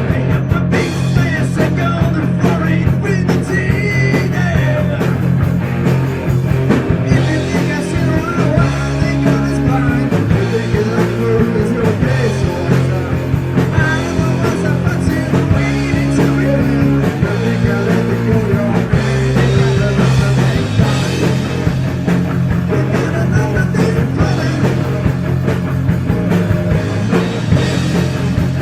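Heavy metal band playing: electric guitar over bass and drums, with a steady driving beat and a shifting bass line.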